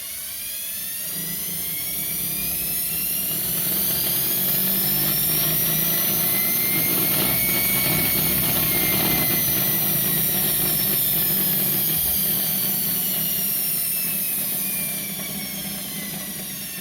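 Washing machine motor running on an SCR speed controller: its whine rises in pitch as the speed is turned up over several seconds, peaks, then falls as it is turned down again.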